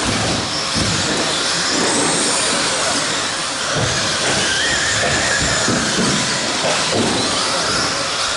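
Radio-controlled stadium trucks racing around the track: a steady hiss of running trucks, with high motor whines rising and falling as they speed up and slow down.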